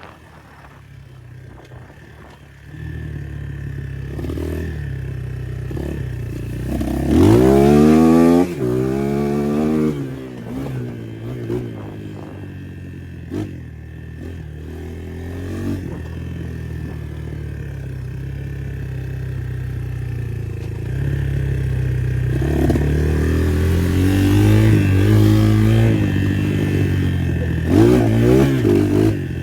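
A 250 cc motocross bike's engine running, its note rising and falling with the throttle. It revs up hard and loud about a quarter of the way in, and again in several rising pulls near the end.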